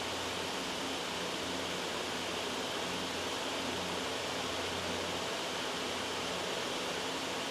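Steady, loud white noise: an even, unchanging hiss that fills the whole range.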